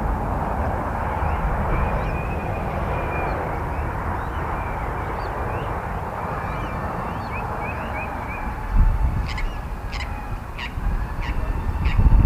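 Wind buffeting the microphone, with birds calling over it: scattered short chirps through the first half, then a run of sharp calls repeated about twice a second from about nine seconds in.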